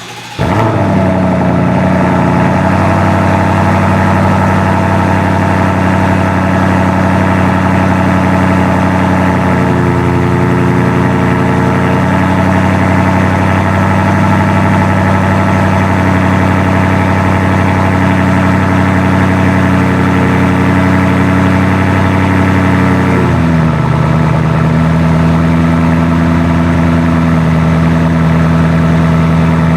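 BMW X7 M50i's twin-turbo V8 starting up through an ARP valved aftermarket exhaust, flaring briefly and then idling steadily and loudly. About 23 seconds in, the idle drops to a lower, deeper steady speed.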